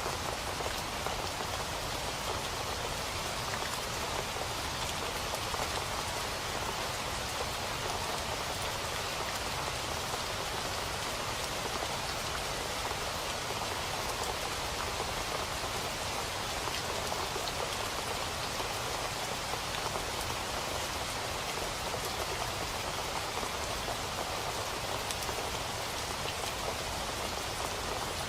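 Steady rain falling on a surface, a dense even hiss with many fine individual drop ticks.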